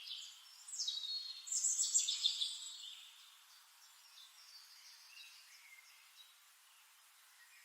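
Birds chirping and trilling, loudest in the first three seconds, then fainter.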